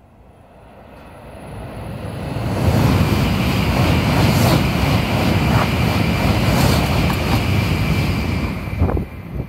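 Tokaido Shinkansen bullet train passing at speed directly beneath on its elevated line: a rushing roar of air and wheels. It builds over the first few seconds, stays loud for about six seconds, and falls away near the end.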